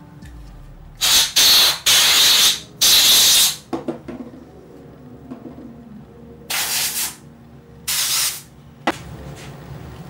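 Canned compressed-air duster blasting through its straw onto a bicycle rear derailleur to blow dirt out of it: a run of four short hissing blasts in the first few seconds, then two more near the end. A short click follows just before the end.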